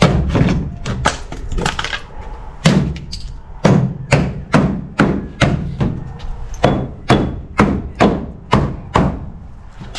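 Repeated sharp knocks, about two a second, with a couple of short pauses: something being struck over and over, in a run of steady blows.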